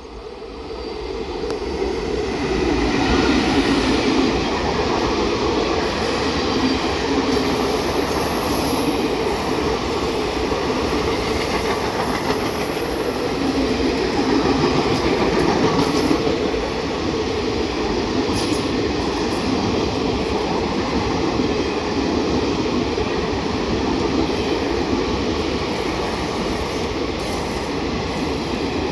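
Express train running past at speed, a steady loud rolling rumble of wheels on rail that builds over the first few seconds, with a faint high squeal now and then.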